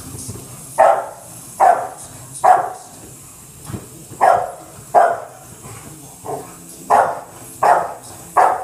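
A dog barking over and over, about ten sharp barks in a fairly even rhythm of roughly one every three-quarters of a second, a couple of them softer.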